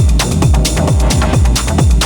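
Hard techno with a four-on-the-floor kick drum at 132 beats per minute, each kick a short drop in pitch in the bass. Hi-hats and synth layers run above it.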